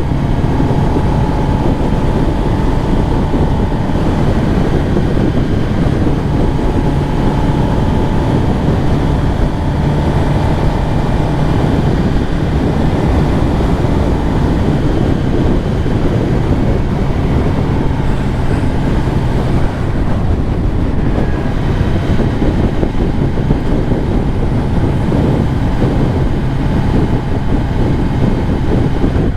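2023 Kawasaki ZX10R's inline-four engine running at a steady cruise, with road wind rushing over the microphone.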